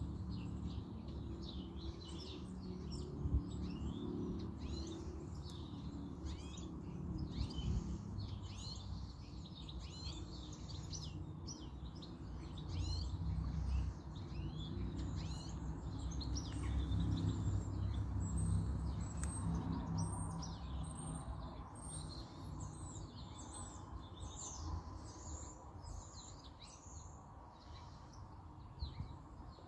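Wild songbirds chirping and singing in many short, overlapping calls, over a steady low rumble.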